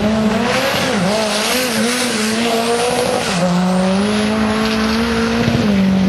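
Drag-racing car engine running at high revs, its note wavering and dipping about three seconds in before holding steady. A hissing noise sits over the first half.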